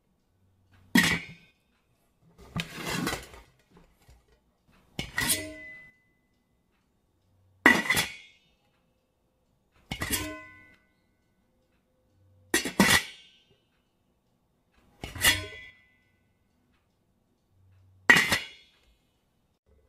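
A metal spatula knocking and scraping against a metal wok as cooked chicken adobo is scooped out. There are about eight separate strikes, roughly one every two and a half seconds, each ringing briefly, with a longer scrape about three seconds in.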